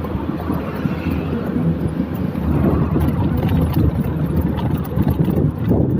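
Wind buffeting the microphone over a steady low road rumble, as heard riding a mountain bike along a road.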